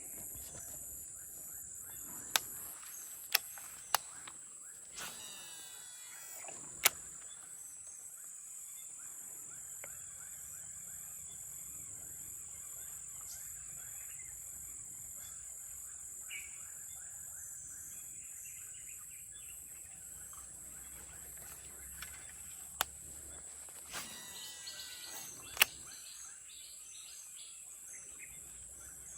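Quiet outdoor ambience with a steady high-pitched insect drone. Several sharp clicks stand out, three in the first few seconds and a few more near the end.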